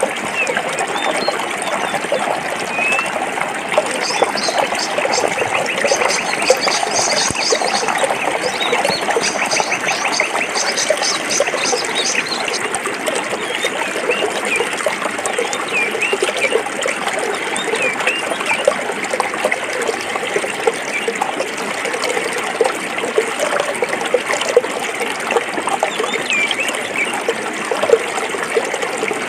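Stream water flowing and trickling steadily over rocks. Birds chirp now and then, and a rapid high trill runs through the first half.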